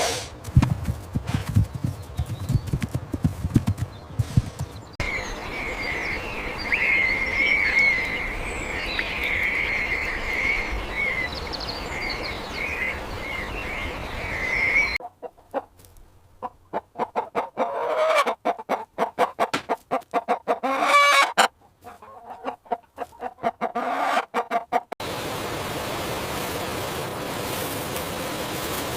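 Chickens clucking and calling in short pulsed bursts, heard across several abruptly cut segments. One stretch has a run of high chirping calls over a steady hiss, and another opens with knocks and thumps.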